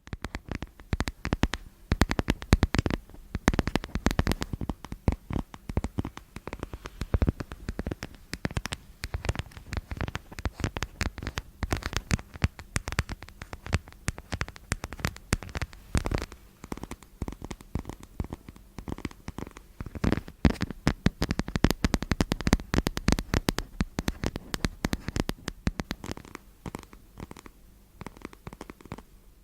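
Rapid, irregular close-miked tapping and scratching, many sharp little clicks a second with some low rumble beneath, thinning out over the last few seconds.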